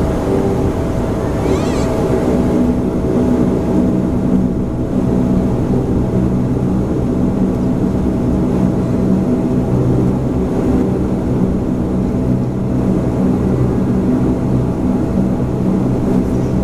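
Bombardier Q400's twin turboprop engines and propellers droning steadily, heard from inside the passenger cabin, with a low, even, multi-toned hum.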